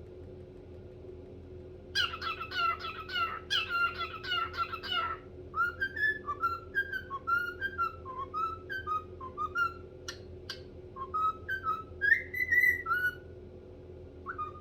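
Cockatiel chirping and whistling: a quick run of chirps starts about two seconds in, then gives way to a string of short whistled notes that rise and fall, with one brief note near the end.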